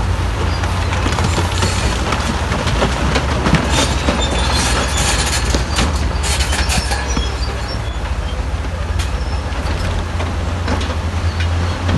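Bulldozer's diesel engine running with a steady low drone while its steel crawler tracks clank and squeal. The clatter is thickest in the middle.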